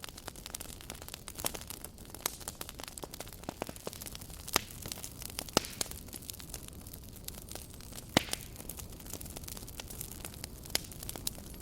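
Campfire burning and crackling: a steady low hiss with frequent irregular snaps of burning wood, a few louder pops about four and a half, five and a half and eight seconds in.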